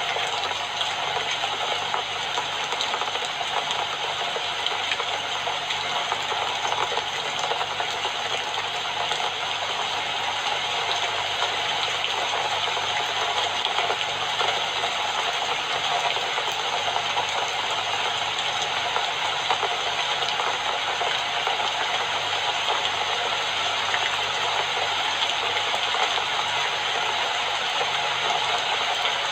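Steady rain falling, an even hiss of many small drops that keeps up without a break.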